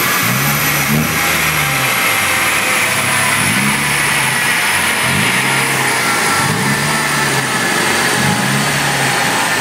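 Mitsubishi Lancer Evolution IX's turbocharged 2.0-litre four-cylinder engine blipped in a string of short revs, each rising and falling back, about every second or so, over a steady loud rushing noise.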